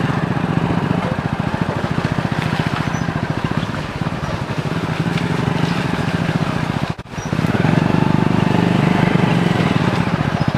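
Motorcycle engine running under way, a rapid steady pulsing throb. It drops off briefly about seven seconds in, as if the throttle is eased, then picks up again.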